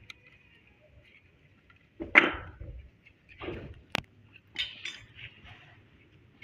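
A few metallic knocks and clinks from tools and bolts being handled on an engine, loudest about two seconds in, with a very sharp click about four seconds in.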